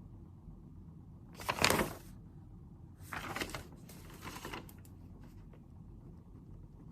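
Handling noises at a study desk: one loud rustle about one and a half seconds in, then two softer rustles around three and four seconds and a few light clicks, over a steady low hum of room noise.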